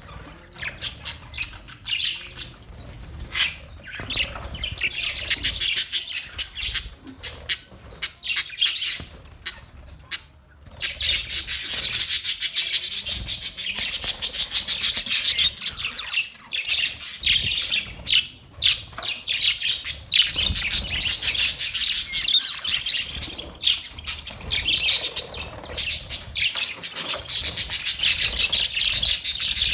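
A flock of budgerigars chirping and chattering in rapid, high calls: sparse for the first ten seconds, then a dense, continuous chatter from about eleven seconds in.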